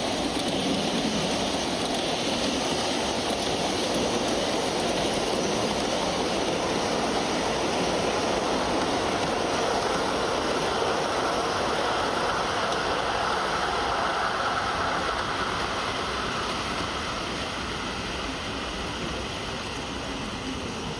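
A train rolling past close by: a steady rushing and rumbling that starts to fade a few seconds before the end.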